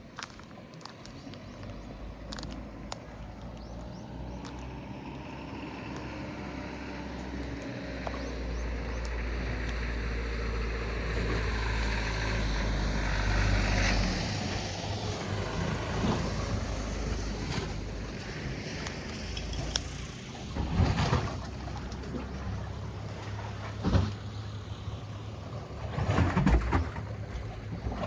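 An engine approaches and passes, growing louder to about halfway and then fading, with a low rumble under it. A few sharp knocks come in the second half.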